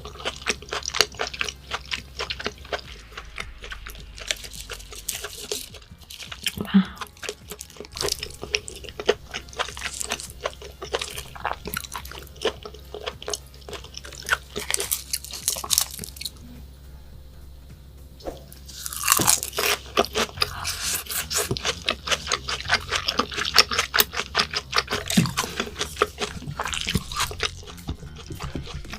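Close-miked mukbang eating sounds: wet chewing and lip smacks in many quick clicks, with a brief lull a little past the middle, then louder again.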